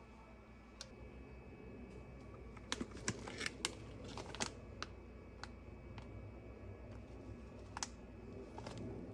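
Scattered light clicks and taps, a quick cluster of them about three seconds in and a few single ones later, over quiet room tone.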